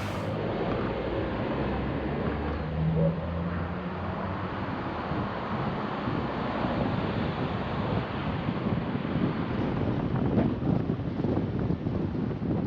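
Car driving along a road: steady engine and road rumble, with wind buffeting the microphone more strongly in the last few seconds.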